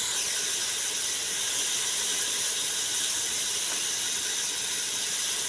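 Chopped tomatoes and onions sizzling steadily in hot ghee in a metal pot, being fried down before the spices go in.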